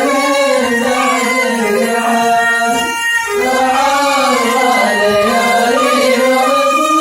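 Voice singing a 'dan' song in long, wavering, drawn-out melodic lines, with a short break for breath about three seconds in.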